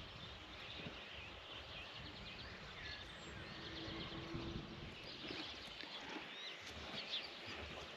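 Faint rural outdoor ambience with distant birds chirping now and then.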